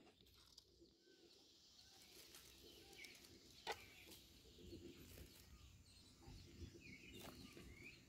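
Near silence, with a few faint bird chirps in the background and one soft click a little before halfway.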